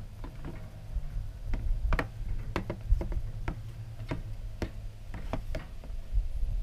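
Ratchet tie-down strap being worked to cinch a motorcycle onto a hitch rack: a run of sharp, irregular clicks, about two a second, over a steady low hum.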